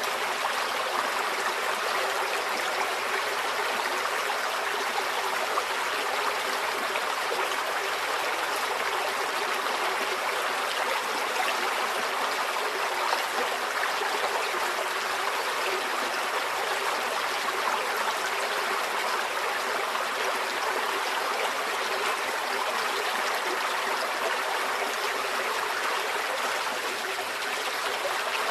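A small stream flowing over stones, a steady burbling rush of water.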